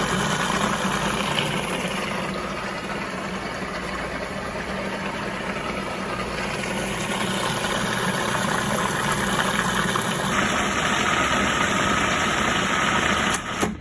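Food processor motor running steadily while blending egg yolks as oil is added a tablespoon at a time to emulsify mayonnaise. Its sound shifts about ten seconds in, and it cuts off near the end.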